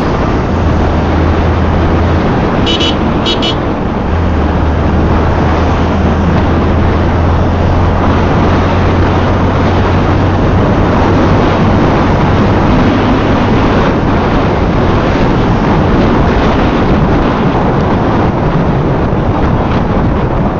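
Yamaha FZ V3 motorcycle riding along at steady speed: heavy wind noise on the microphone over the engine's steady low hum. Two short horn beeps about three seconds in.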